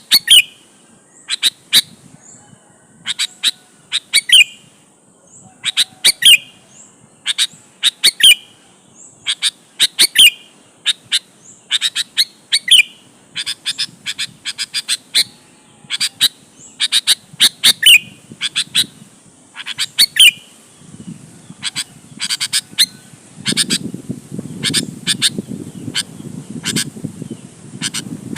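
Sooty-headed bulbul (kutilang) singing: short, sharp whistled notes repeated in quick clusters, one to two a second. In the last several seconds a low noisy sound runs underneath the song.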